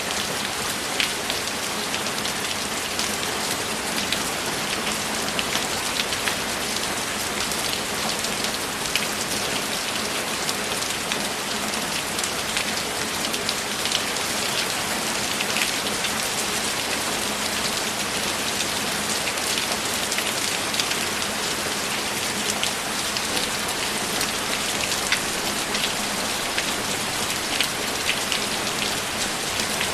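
Steady rain falling, with individual drops ticking against a surface throughout.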